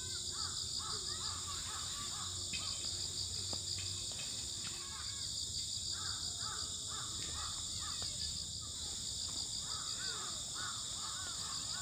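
Insects, likely crickets, trilling steadily and high, with groups of short, repeated bird calls over the top.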